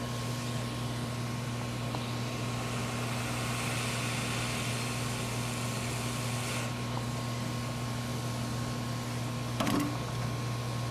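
Steady low electrical hum of workbench equipment, with a soft hiss for a few seconds in the middle and a light tap near the end.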